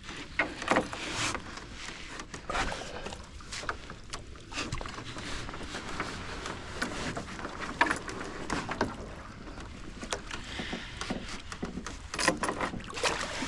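Irregular knocks, bumps and scrapes of a canoe as a man and a German Shepherd settle into it and it is pushed off.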